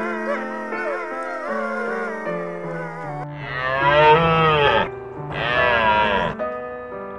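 Wolves howling, several wavering voices together, then a deer stag gives two long, loud calls, the first about a second and a half long and the second about a second. Background music plays underneath.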